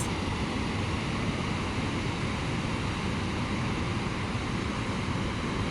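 Waterfall in full flow after rain: a steady, even rushing roar of water cascading over rock.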